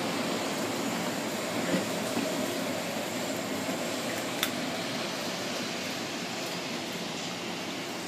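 JR 189-series electric train running past at low speed: a steady rumble of wheels and running gear that slowly fades as it moves away. A single sharp click about four and a half seconds in.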